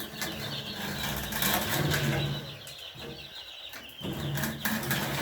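Young broiler chicks peeping continuously, with wing flaps and scuffling among them. The chicks are stressed by something new in their cage.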